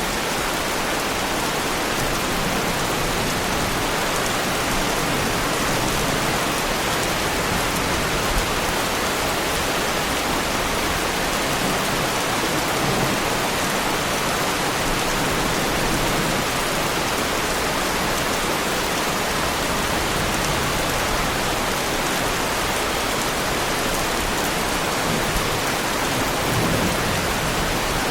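Heavy rain falling steadily on a car's body, an even unbroken hiss of drops.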